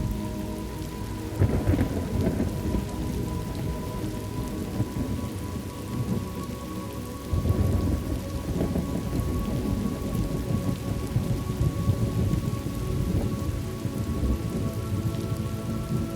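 Thunderstorm ambience: steady rain with rolling thunder. A louder rumble comes about a second and a half in and another about seven and a half seconds in. Faint sustained tones sit underneath.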